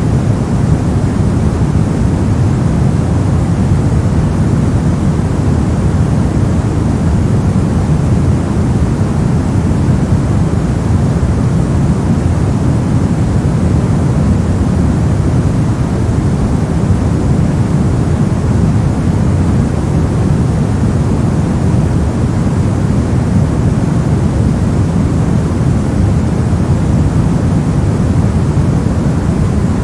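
Continuous white-noise track, a steady, even rush with no change in it. Its energy is heaviest in the low range and it thins out toward the top, so it sounds deep rather than hissy.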